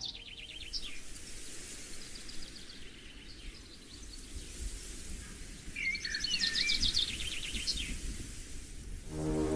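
Woodland birds singing: rapid, high, repeated trills, with a louder burst of song and a warbling phrase a little past the middle, over a low steady outdoor rumble.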